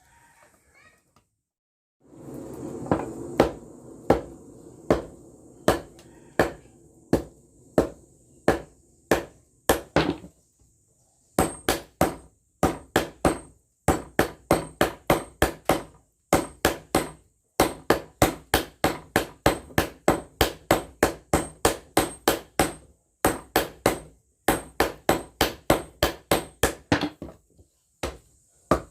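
Hand hammer striking steel on an anvil, forging a blade from railway-rail steel. Slower single blows at first, then quicker runs of about three strikes a second broken by short pauses.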